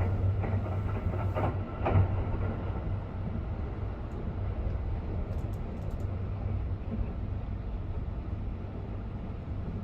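Interior running noise of a 285-series Sunrise Seto/Izumo sleeper train: a steady low rumble from the moving train, with a few knocks from the track in the first two seconds, the loudest about two seconds in.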